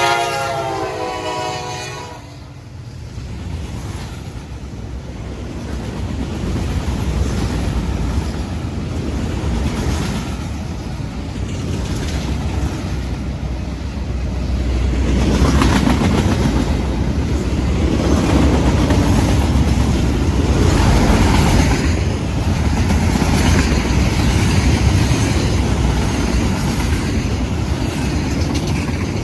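A train horn's chord ends about two seconds in, followed by a passing train's steady rumble and wheel clatter on the rails, which grows louder about halfway through.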